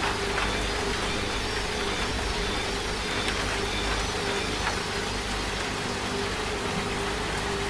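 Washing machine running with a steady motor hum, mixed with the even hiss of rain.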